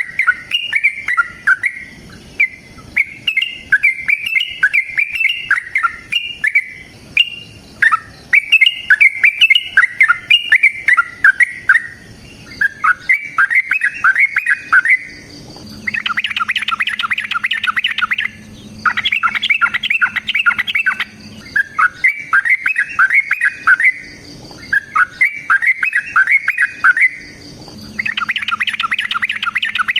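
Yellow-vented bulbul (trucukan) singing in long runs of bubbly, chattering phrases, each a second or two long, one after another. The song grows denser and louder after about halfway, over a faint steady hum.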